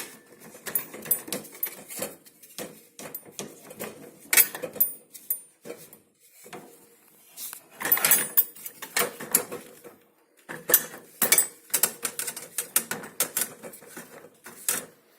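A grater being worked into a Hotpoint dishwasher's rack: irregular clatters, knocks and rattles as it bumps against the rack and the dishes already loaded, with brief pauses between bursts of handling.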